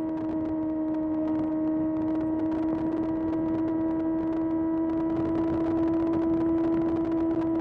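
Kawasaki ZX6R's inline-four engine running at a steady, unchanging pitch while the bike holds a constant speed, over a hiss of wind and road noise.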